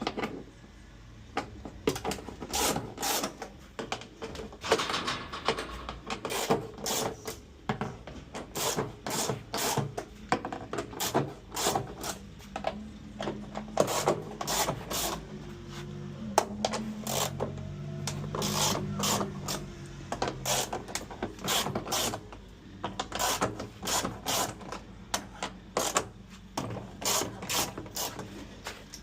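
Hand tool work on washing machine parts: a long run of irregular sharp taps, two or three a second, mixed with scraping. A low hum joins midway for several seconds.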